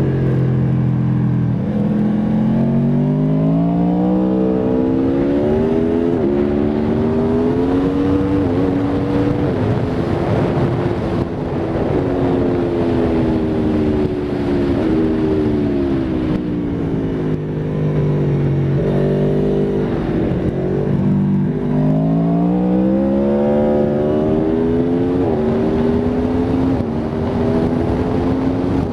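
Aprilia Tuono V4 RR's V4 engine at full track pace: its pitch climbs through the gears, dropping a little at each upshift. It falls away steadily through the middle as the bike slows for a corner, then climbs hard through the gears again.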